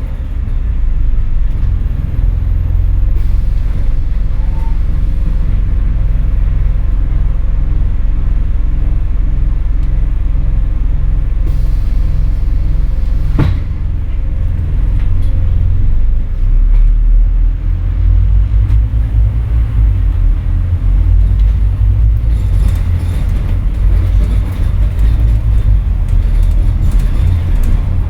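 Scania N230UD double-decker bus heard from on board: its engine and drivetrain run with a steady, heavy low rumble as it drives along. A single sharp click sounds about halfway through.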